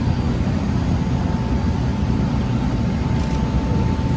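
Steady low engine rumble with a faint thin tone running through it.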